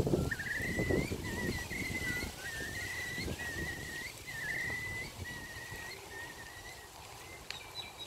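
A bird giving a long run of high, wavering calls, one after another for about seven seconds, over wind buffeting the microphone in the first two seconds or so.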